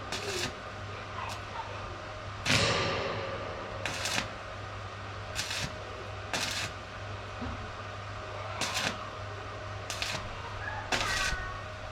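Arc welding tack welds on a steel boat frame: about nine short crackling bursts of a fraction of a second each, spaced irregularly, the loudest about two and a half seconds in, over a steady low hum.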